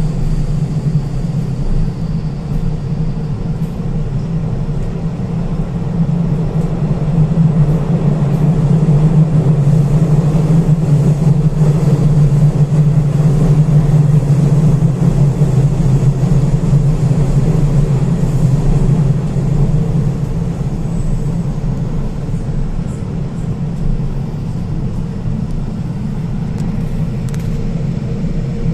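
Steady low rumble and hum of a railway train running, growing louder over several seconds and then easing off.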